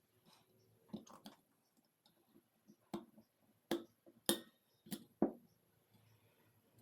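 Sharp metallic clicks and knocks of tools and small engine parts being handled, about seven in all, the loudest coming between three and five and a half seconds in.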